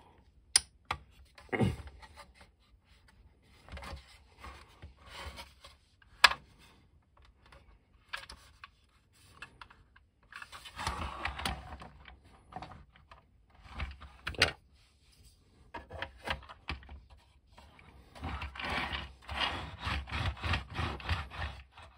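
Hands handling a plastic toy tank while its tracks are pressed and lined up: on-and-off scraping and rubbing, with a few sharp clicks.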